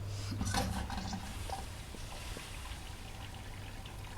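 Washing machine filling with water at the start of a wash cycle: water running into the drum over a steady low hum, with a louder gush about half a second in.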